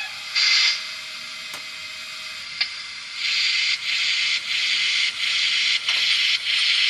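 Recorded steam-locomotive sound from the sound decoder of an MTH HO-scale DR class 18 model: a short hiss of steam, a couple of faint clicks, then slow, even exhaust chuffs, about one every 0.6 s, beginning about three seconds in as the engine sounds pull away.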